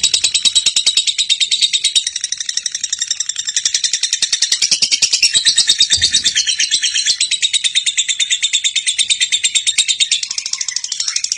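Lovebird giving a long, unbroken 'ngekek' chatter: a very fast, high, rattling trill of rapid notes.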